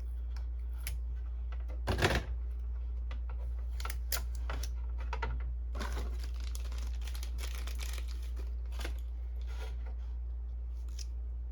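Small clicks, taps and crackly rustles of hands working on a plastic inkjet cartridge as its sticky label is peeled back off for priming, the loudest a sharp crackle about two seconds in and a busy run of clicks midway. A steady low hum runs underneath.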